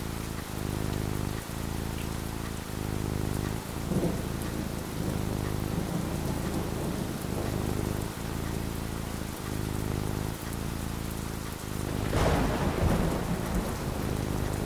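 Steady rain falling over a low, continuous rumble, with a roll of thunder swelling louder near the end.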